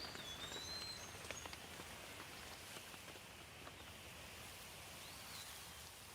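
Steady light rain with scattered drips. A bird gives short chirping calls near the start and again about five seconds in.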